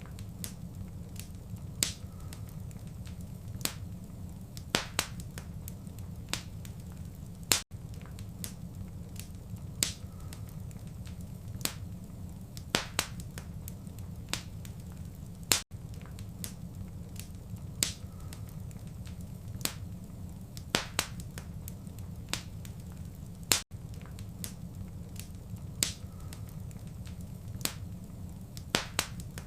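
Wood fire crackling in a fireplace: a steady low rumble of flames with irregular sharp pops and snaps. The sequence repeats about every eight seconds, with a momentary drop-out at each repeat.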